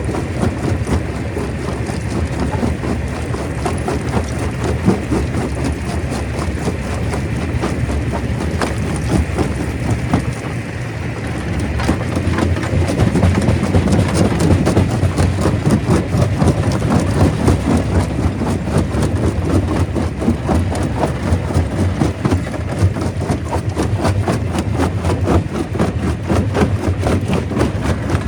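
Stone crusher running: a steady low rumble of machinery under dense, rapid rattling and knocking of rock, growing louder a little before halfway through.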